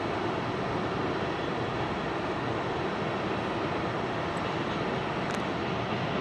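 Freight train cars rolling past with a steady rumble of wheels on rail, and two faint ticks near the end.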